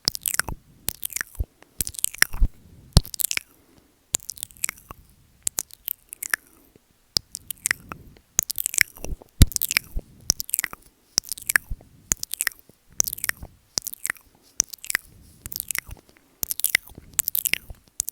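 ASMR mouth sounds right on the microphone: bursts of wet clicks and smacks from the mouth, lips and tongue working the mic, coming in short clusters about once or twice a second with brief gaps.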